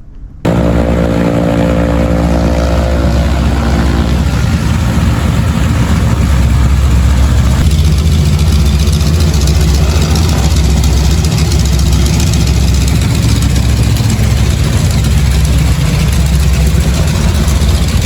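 Light aircraft's piston engine and propeller running close by at a steady low-power setting, as when taxiing: an even low drone with a hiss of propeller wash over it. It cuts in abruptly about half a second in.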